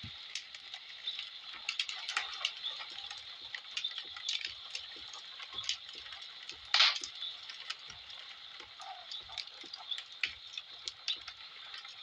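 Wood fire crackling in a fireplace: irregular small pops and snaps, with one louder crack about seven seconds in.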